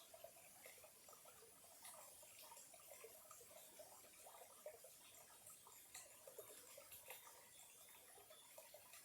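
Small stream of clear water trickling faintly, with a steady patter of little gurgles and drip-like ticks.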